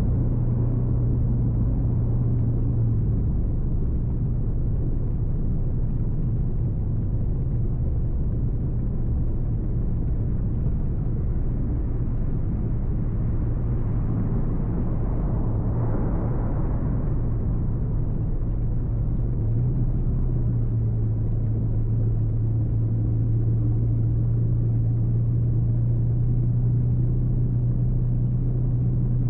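A car driving with a steady low rumble of road and engine noise. A low hum fades about three seconds in and comes back about twenty seconds in, and there is a brief swell of wider noise midway.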